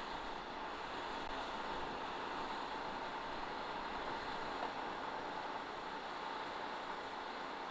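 Steady vehicle noise at a distance, an even rumbling hiss with a faint high tone running through it.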